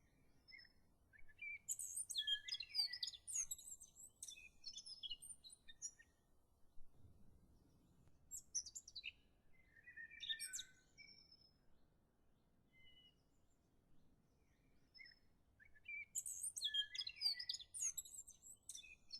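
Birds singing, with quick high chirps and twitters coming in three bouts separated by quiet pauses.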